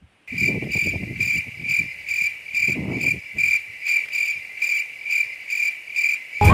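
Crickets chirping in a steady high trill that pulses about twice a second. It starts and cuts off abruptly, with faint low rustling beneath.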